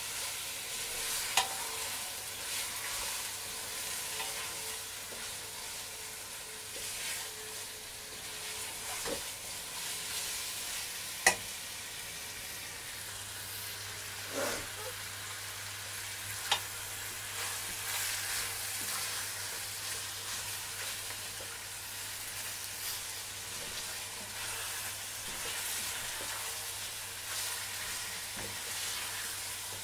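Chicken pieces and onions sizzling in oil in a stainless-steel pot, stirred with a spatula that scrapes and knocks against the pot a few times, sharpest about a second in and around eleven and sixteen seconds in.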